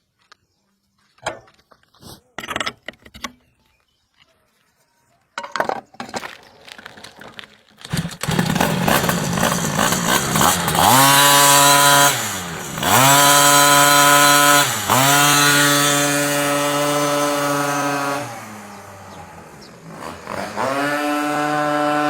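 Automatic scooter's small single-cylinder engine, with a few clicks and knocks first, then running loud from about eight seconds in. It is revved up and held at high revs with two brief dips, eases back toward idle about two-thirds through, and is revved up again near the end.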